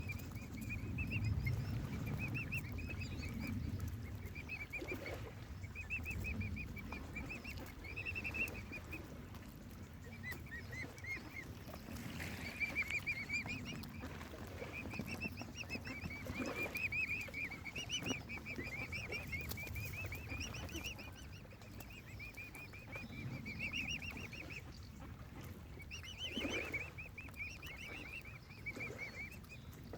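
Mute swan cygnet peeping: a near-continuous series of short, high cheeping calls, over a low rumble.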